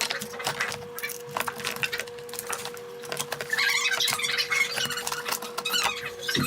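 Plastic pressure-washer parts and packaging being handled: scattered clicks and knocks, with squeaking from about halfway through. A faint steady hum runs underneath.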